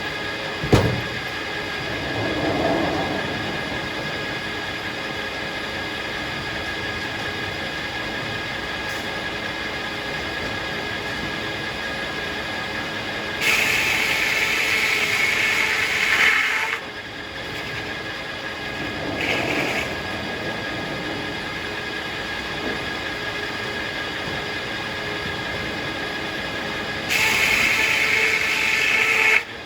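Circular sawmill running, its blade and power unit giving a steady whine with several held tones. Twice it gets louder and hissier for about three seconds, a little under halfway and near the end, as the blade cuts through a hackberry log. There is a sharp knock about a second in.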